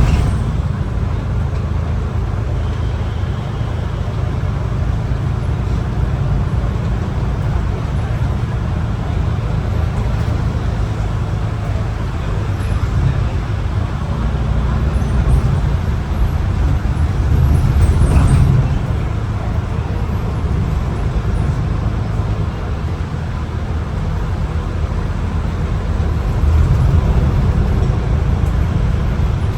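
MAN ND323F double-decker bus under way, heard from inside: a steady low engine and road rumble while it is driven hard, swelling briefly about two-thirds of the way through.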